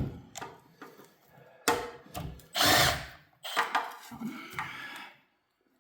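A power tool runs in several short bursts among knocks and clanks of metal, as bolts are taken off an engine being torn down. The loudest burst comes a little before the middle.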